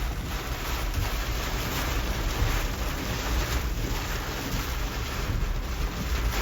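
Typhoon wind and heavy rain: a steady hiss of rain with low rumbling wind buffeting the microphone.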